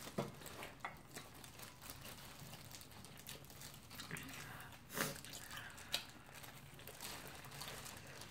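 Faint wet chewing and lip-smacking of two people eating sauced fried chicken, with scattered small clicks and a couple of louder smacks about five and six seconds in.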